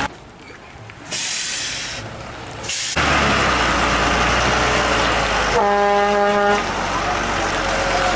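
Heavy truck engine running as it labours uphill. There is a brief hiss about a second in, and a vehicle horn sounds for about a second midway.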